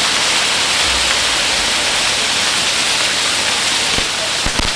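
Ground fireworks hissing steadily as they spray sparks, with a few sharp cracks starting near the end.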